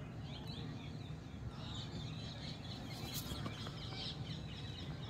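Small birds chirping, many short high calls overlapping without pause, over a steady low hum.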